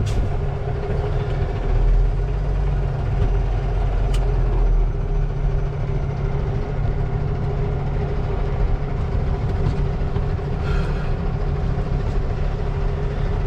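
Tractor-trailer's diesel engine running steadily at low revs, heard from inside the cab.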